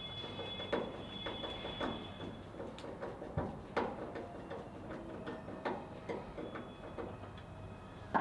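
Phillips screws being driven in to fasten a plastic tail light housing: irregular clicks and knocks of the screwdriver against the screws and housing.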